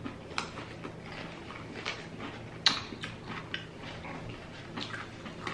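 Close-miked eating sounds: crunchy bites into crisp cucumber sticks and wet chewing, with scattered sharp crunches, the loudest about two and a half seconds in.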